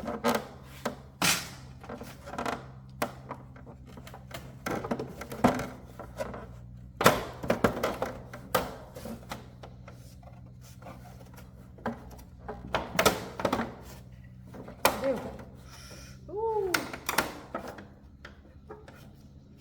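Irregular knocks, clicks and clatter of hand tools and metal parts being handled during motorcycle repair work, over a steady low hum. There is a brief squeak about three-quarters of the way through.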